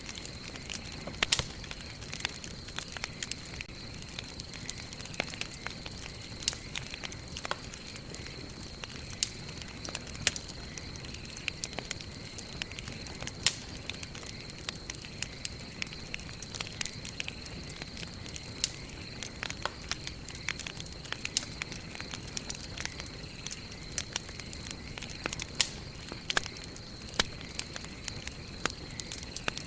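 Wood campfire burning and crackling: irregular sharp pops and snaps, several a second, over a soft steady rustle of flames, with a few louder pops standing out.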